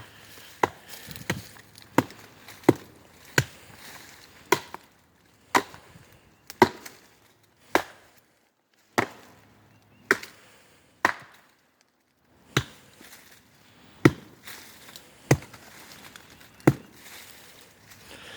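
Wood being chopped: about sixteen sharp chopping blows, roughly one a second, with a couple of short pauses.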